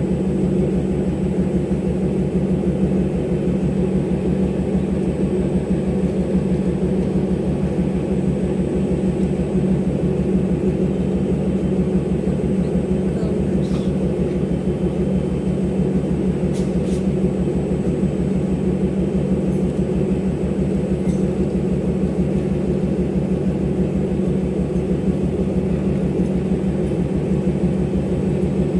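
Diesel locomotive engine running steadily with a low, even throb, unchanged for the whole stretch.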